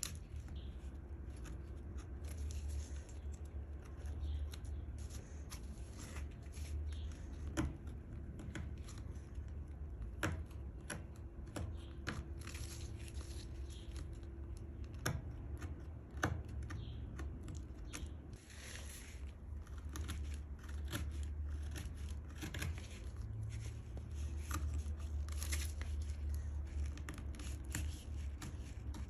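A hand tool working a small piece of walnut wood: irregular scraping and rubbing strokes with scattered sharp clicks, over a steady low hum.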